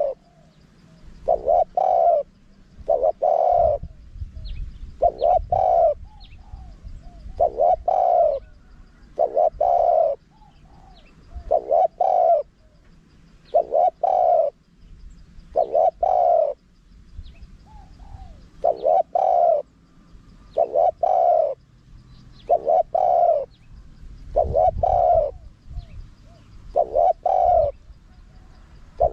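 Spotted dove cooing, repeating the same short coo phrase about every two seconds.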